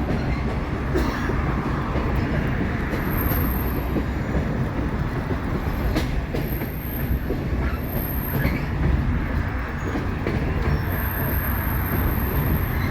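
Passenger train rolling along, heard from an open-air coach directly behind an EMD F40PHM-2 diesel locomotive: a steady rumble of wheels on rail with occasional clicks. A thin high squeal comes and goes several times.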